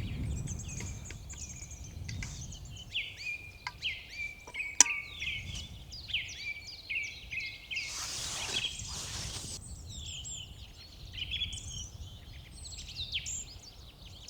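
Mixed spring dawn chorus of several songbirds singing at once, with many overlapping chirps and repeated note series. A sharp click sounds about five seconds in, and a short rush of noise comes about eight seconds in.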